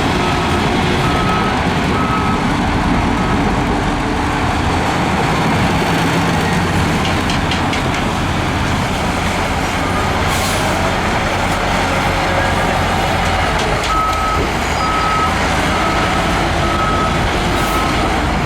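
Heavy diesel earthmoving machinery running steadily, with a backup alarm beeping at one steady pitch about twice a second near the start, stopping, and starting again about two-thirds of the way through.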